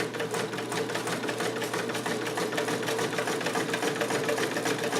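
Vintage Sovereign electric sewing machine running steadily at speed: its motor hums under a rapid, even ticking of needle strokes, about eight or nine a second.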